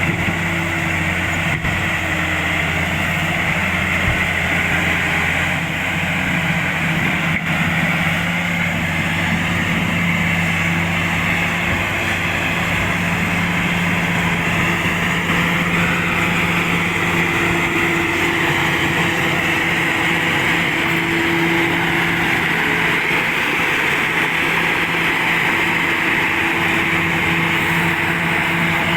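Komatsu D85SS-2 bulldozer's diesel engine running steadily at working speed, a constant drone with no marked revving.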